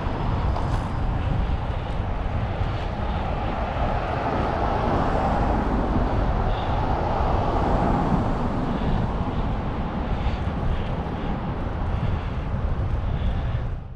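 Steady rush of wind over the microphone of a camera on a moving bicycle, with deep rumble and road and traffic noise underneath.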